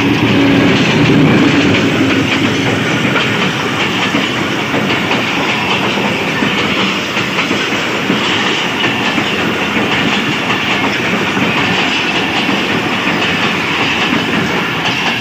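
HBU-20 diesel locomotive passing close by at speed, its engine loudest in the first couple of seconds, followed by a string of passenger coaches rolling past with a steady clatter of wheels on the rails.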